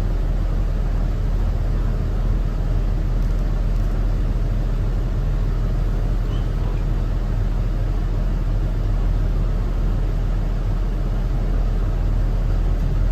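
Steady low rumble inside a 2018 Thomas Saf-T-Liner C2 school bus, its Cummins ISB 6.7 diesel engine running.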